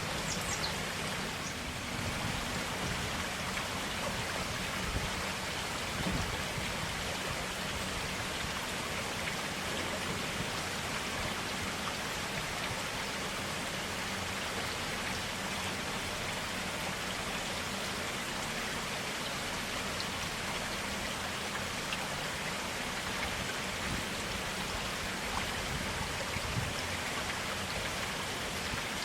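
Clear forest stream water flowing and splashing steadily, a continuous even rush with small drips and splashes in it.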